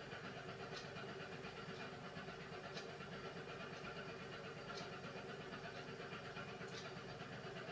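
Beko WMY81283LMB2 washing machine running its hand wash cycle: a steady low hum with a faint click about every two seconds.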